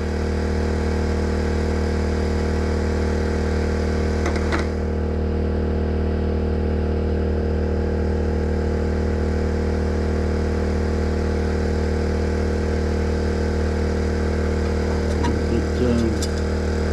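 Generator engine running steadily at a constant speed, with a brief click about four and a half seconds in.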